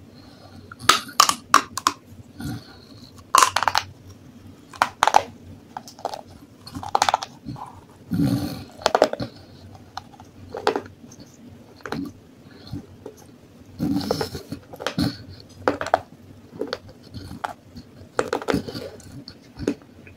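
Pieces of baked clay pot being bitten and crunched: sharp, irregular crunches every second or two, with quieter chewing between.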